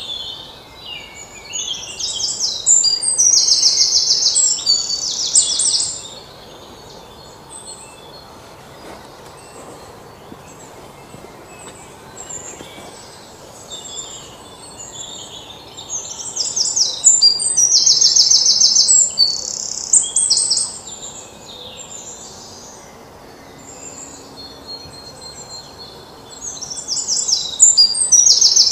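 Birds singing and chirping in three loud bouts of rapid, high-pitched trilling, each a few seconds long, over a low steady outdoor hum.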